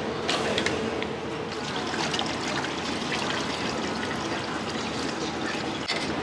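Steady rush of running water in a restaurant kitchen, with a few short clinks of utensils or dishes.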